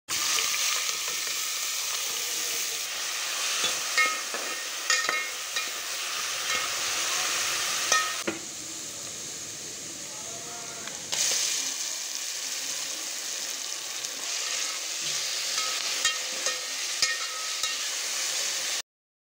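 Food sizzling in hot oil in a pan, with scattered clinks and knocks of a spoon stirring against the pan. Partway through, the sizzle drops quieter for about three seconds, then jumps back up.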